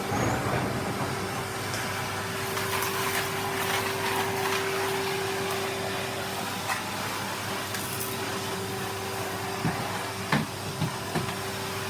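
Household vacuum cleaner running, a steady rushing noise with a constant motor tone. A few sharp clicks and knocks come near the end.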